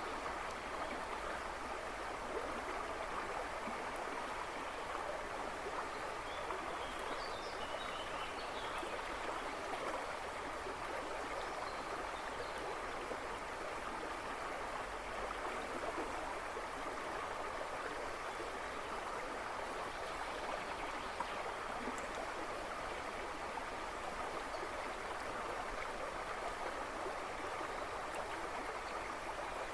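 A river rushing and babbling steadily. Faint bird chirps come in the background about a quarter and again about two fifths of the way in.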